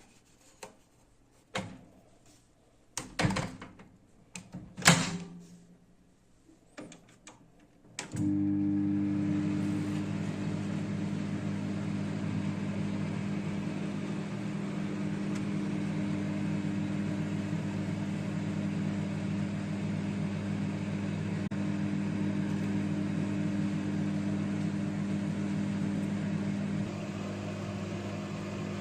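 A few clicks and knocks, then about eight seconds in a microwave oven starts running with a steady hum that goes on, dropping slightly in level near the end.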